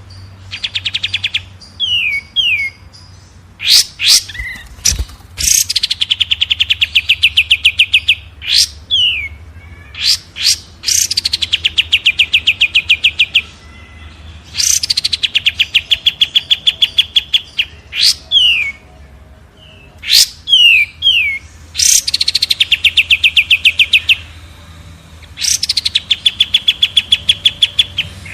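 Recorded songbird song: a high sweeping note that drops into a rapid, even trill of about ten notes a second, lasting two to three seconds and repeated roughly every four seconds, with short paired down-slurred chirps in between. A faint steady low hum runs underneath.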